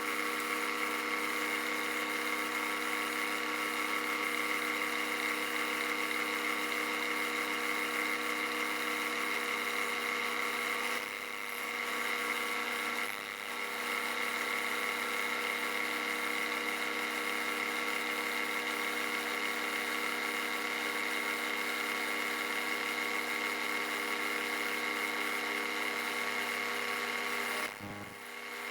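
Bridgeport milling machine running with a steady whine, its 1/2 inch two-flute high-speed steel end mill cutting a radius on an aluminum link. The sound dips briefly twice around the middle and again near the end.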